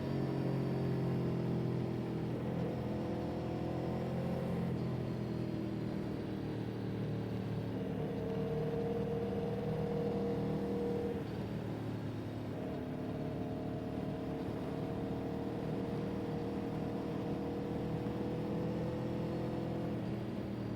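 Motor vehicle engine running steadily while driving, with its note shifting in pitch several times over the stretch.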